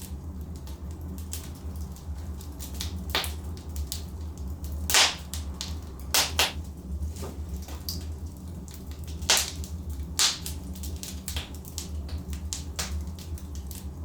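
Logs burning in a fireplace: scattered sharp crackles and pops, the loudest about five and nine seconds in, over a steady low rumble.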